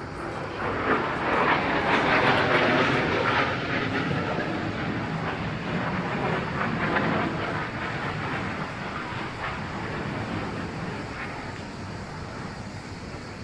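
A motor vehicle passing close by. It grows loud over the first couple of seconds, then slowly fades away.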